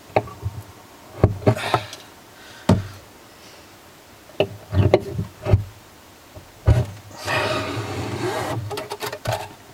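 Needle and heavy string worked through drilled holes in a stitch-and-glue boat hull: scattered knocks and clicks against the hull, then a longer rasp of string being pulled tight from about seven seconds in.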